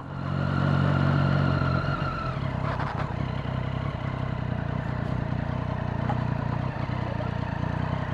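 Triumph Street Triple's inline-three motorcycle engine running at steady revs, with a higher whine that stops about two seconds in.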